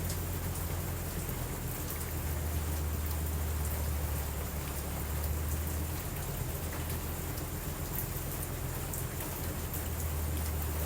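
Steady rain with a constant low rumble underneath and scattered light ticks of drops.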